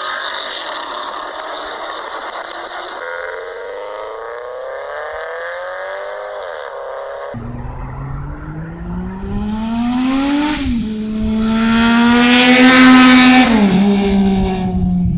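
Engine revving, its pitch climbing steadily. About seven seconds in it cuts abruptly to a deeper engine that is revved twice, each rev rising and then falling back, the second one loudest.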